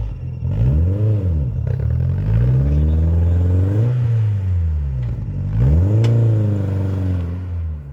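Historic rally car engine revving up and falling back several times in a row as it is driven hard through a stage, with a sharp crack about six seconds in.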